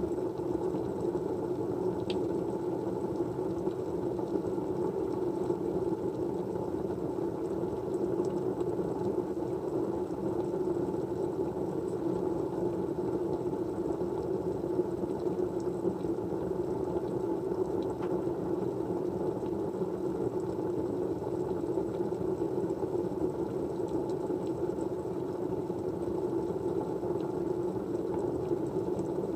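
Steady white noise: an even, low rushing hiss that never changes, with a few faint ticks scattered through it.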